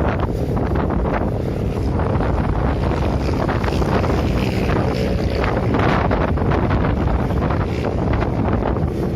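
Strong gusting wind buffeting the microphone: a steady, loud rumble with rushing hiss that swells and eases.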